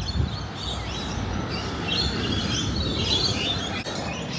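Birds chirping over a steady low rumble of traffic, the chirps busiest in the middle of the stretch.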